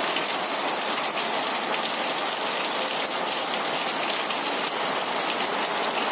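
Heavy rain falling steadily: an even hiss of many drops striking nearby surfaces.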